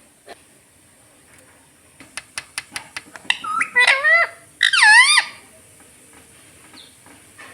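Pet ring-necked parrot making a quick run of about six sharp clicks, then two loud, pitched calls that bend up and down in pitch.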